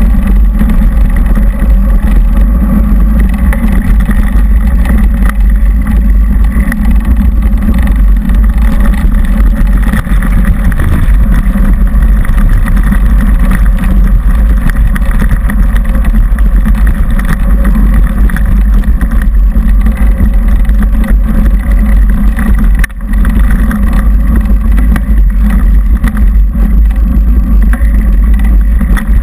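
Loud, steady low rumble of a mountain bike riding a dirt trail, with wind and vibration buffeting a GoPro camera's microphone; it dips briefly about 23 seconds in.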